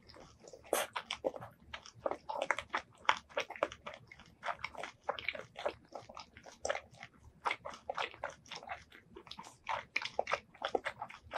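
Close-miked chewing of crunchy boiled squid in spicy sauce: rapid wet crunches and clicks, several a second, with no pauses.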